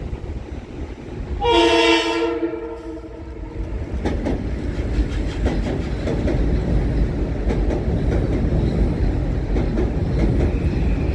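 A Metro-North commuter train's horn sounds one blast of about a second and a half, a chord of several steady tones. Then the train runs past, a steady rumble with wheels clicking over the rail joints.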